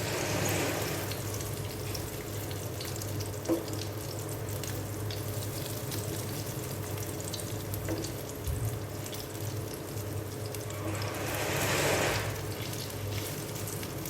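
Food sizzling in hot oil in a pan: a steady frying hiss with a single sharp click about three and a half seconds in, and a louder surge of sizzle near the end.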